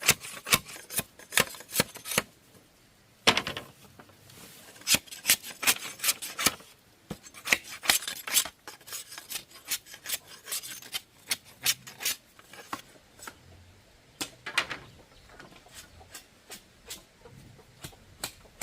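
Bamboo being scraped or rasped by hand in short, quick strokes, about two or three a second, with brief pauses; the strokes thin out near the end.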